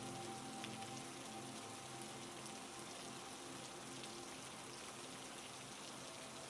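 Recorded heavy rain falling steadily as an even hiss, with faint steady low tones held underneath.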